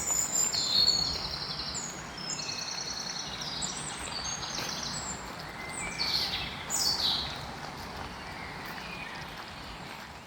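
Songbirds singing: a mix of short whistled notes and rapid trills, with two loud down-slurred calls about six and seven seconds in, thinning out near the end. A steady background hiss of outdoor ambience runs beneath.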